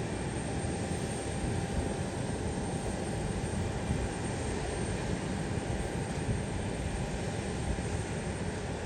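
Airliner engines at the airport, a steady rush of engine noise with a faint high whine.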